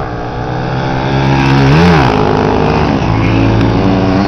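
Motocross dirt bike engines revving hard. The pitch climbs and then drops sharply about two seconds in, and again near the end.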